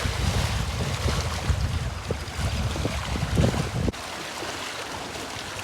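Strong wind buffeting the microphone over choppy lake waves washing below. The wind rumble cuts off suddenly about four seconds in, leaving the steady wash of the waves.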